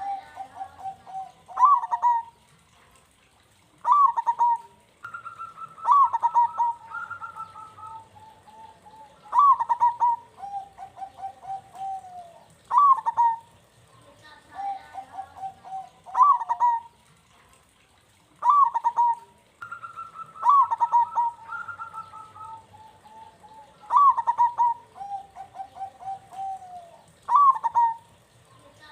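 Zebra dove (perkutut) cooing its song over and over. Each phrase opens with a loud, sharp note and then runs into a quick string of lower coos, and the phrases come every two to four seconds.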